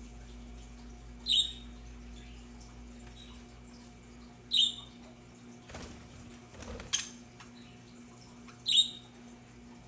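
Budgerigars calling: three short, sharp, high chirps a few seconds apart, with a couple of brief scratchy clicks between the second and third.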